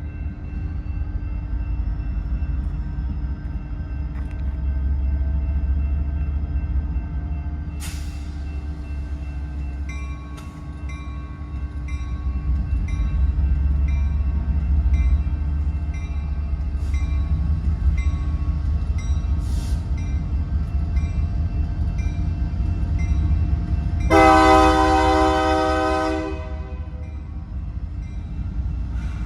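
Train rumbling steadily past at close range, with one loud blast of the locomotive's air horn, about two seconds long, near the end.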